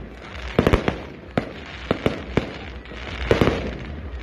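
Aerial fireworks shells bursting: a string of sharp bangs, several coming in quick clusters, about half a dozen in all.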